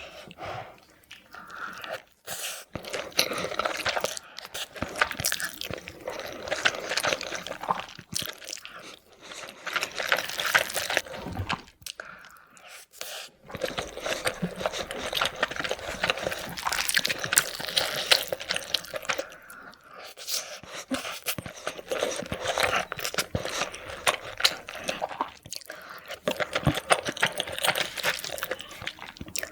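Close-miked eating of a spicy seafood boil: irregular crunching, chewing and wet smacking, with short pauses between bites.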